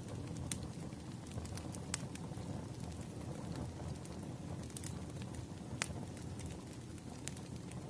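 Burning firewood crackling: a steady low rumble of flames with sharp pops scattered through it, the loudest about half a second, two seconds and six seconds in.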